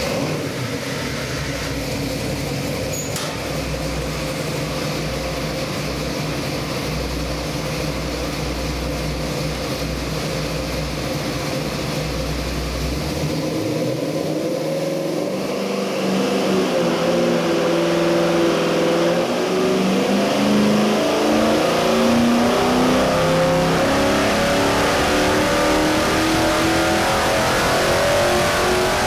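Carbureted Ford 351 Windsor small-block V8 with a hydraulic roller cam running on an engine dyno during a dyno run. It runs at a steady speed for about half the time, then the revs climb steadily and it gets louder through the rest.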